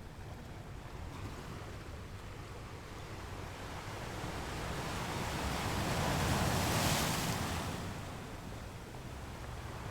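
Ocean surf: a wave builds over a few seconds, breaks and washes loudest about two-thirds of the way through, then falls back to a low steady rush.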